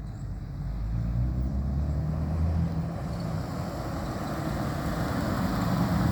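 Jeep Wrangler TJ exhaust through a Magnaflow glasspack muffler, heard from outside as the Jeep drives, a low rumble that grows gradually louder as it approaches.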